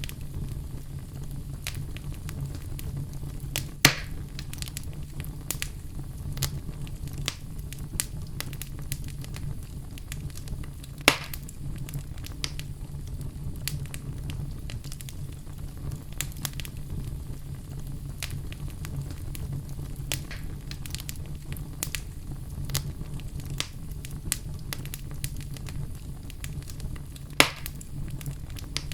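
Oak logs burning in a fireplace: a steady low rumble and hiss of the flames with frequent irregular crackles, and three louder pops, about four, eleven and twenty-seven seconds in.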